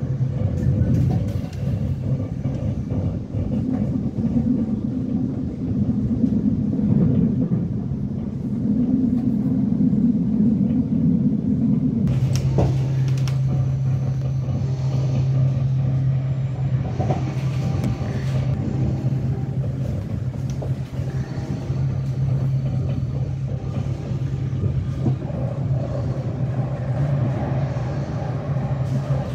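Passenger train running, heard from inside the carriage: a steady low rumble of wheels on the track, which settles into a steady low hum about twelve seconds in.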